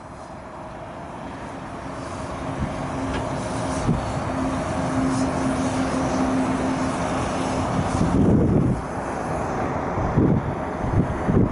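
Scania R 480 truck's six-cylinder diesel engine running, growing louder over the first few seconds. A steady whine is held for several seconds in the middle, and a few louder surges come in the last few seconds.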